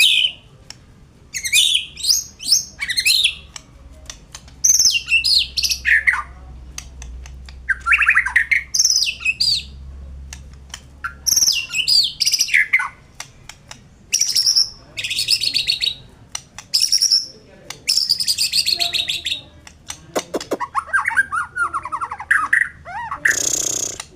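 White-rumped shama (murai batu) singing: repeated phrases of sliding whistled notes and fast trills separated by short pauses, with sharp clicking notes between them and a brief harsh rasping burst near the end.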